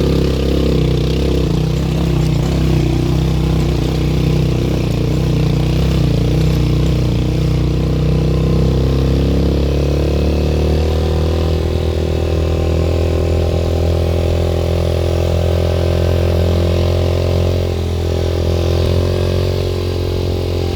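Vehicle engine running steadily under load while driving, its pitch shifting slowly with engine speed.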